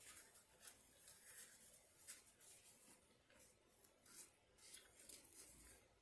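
Faint, soft eating sounds: short scratchy rustles and scrapes from someone chewing and handling fast food, a few every second.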